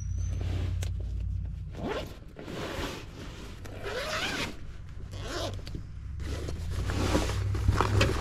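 Zipper being drawn open or shut in a series of short rasping pulls.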